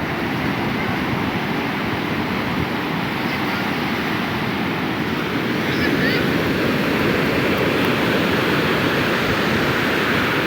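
Sea surf washing onto a beach, a steady rushing noise that swells a little about six seconds in.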